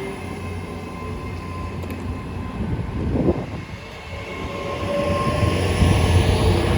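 Class 800 bi-mode train pulling out on its underfloor diesel engines: a steady low rumble with faint tones that grows louder about two-thirds of the way in.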